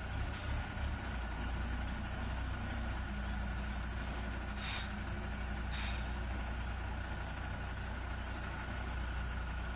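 Heavy tanker truck's engine running slowly while it manoeuvres, with three short hisses of its air brakes: one right at the start, then two about a second apart near the middle.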